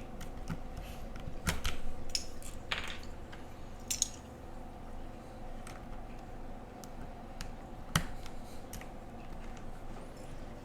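Scattered clicks and light clatter from mechanical keyboard parts being handled, with switches being fitted for the spacebar. The clicks come one at a time, a second or more apart, over a faint steady hum.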